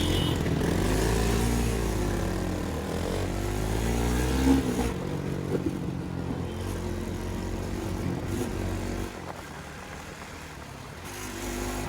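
Motorcycle engine running under way, its pitch rising and falling twice in the first few seconds as it is revved, then holding steadier before dropping lower and quieter about nine seconds in.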